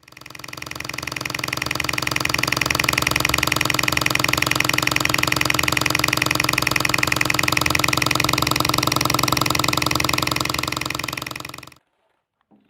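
Diesel engine idling with a rapid, even knock, fading in over the first couple of seconds, holding steady, then fading out and stopping shortly before the end.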